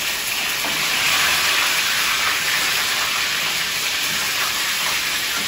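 Eggplant pieces sizzling steadily in hot oil in a kadhai.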